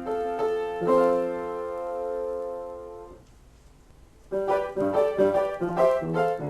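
Solo piano improvisation: chords, one held and left to die away, a pause of about a second, then a quick series of notes and chords starts again.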